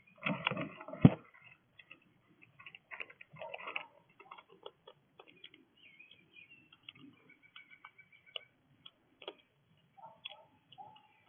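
A visiting animal knocking and scrabbling at a bird feeder: a burst of knocks in the first second, one loud knock about a second in, then scattered light clicks and ticks.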